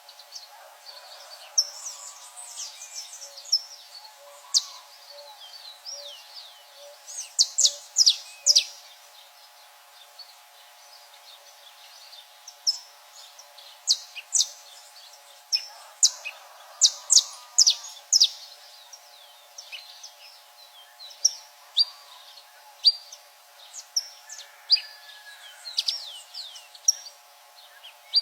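Saffron finch and great kiskadee singing: a lively run of short, sharp high chirps coming in irregular clusters, loudest around 7 to 9 seconds in and again around 16 to 18 seconds in. A faint steady hum lies underneath.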